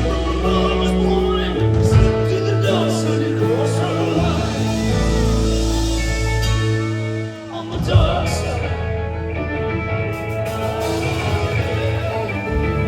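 Rock band playing, with a singer and guitar. The music drops back briefly a little past halfway, then comes back in on a loud hit.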